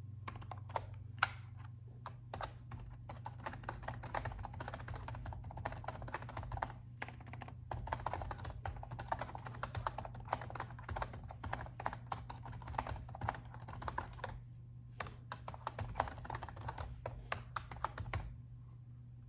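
Fast, steady typing on a laptop keyboard, keys clicking in quick runs, with a short pause about two-thirds in; the typing stops shortly before the end, leaving a faint low hum.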